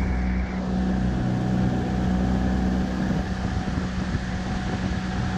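Small boat's outboard motor running at a steady pitch, with wind noise on the microphone.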